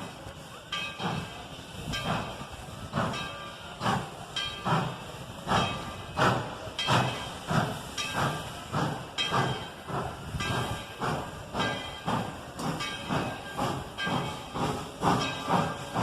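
Steam locomotive exhaust chuffing rhythmically over a steady hiss of steam. The chuffs gradually quicken as the train picks up speed.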